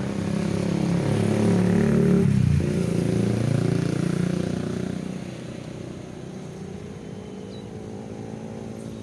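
Diesel locomotive engine of a departing passenger train revving up, its pitch dipping and then climbing again about two and a half seconds in, then easing off and fading.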